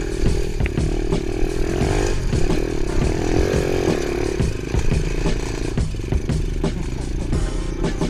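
Small dirt bike engine revving up and down as it rides a rough trail, with many clattering knocks throughout; the engine note drops away about six seconds in.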